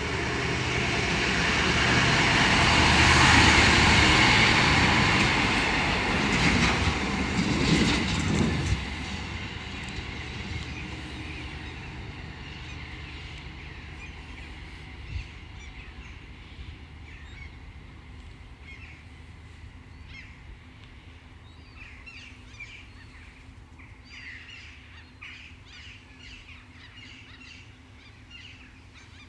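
Track maintenance train passing at speed, loudest about three to four seconds in, with a burst of wheel clatter over the rail joints around six to nine seconds in, then dying away. Birds chirp in the last several seconds as it fades.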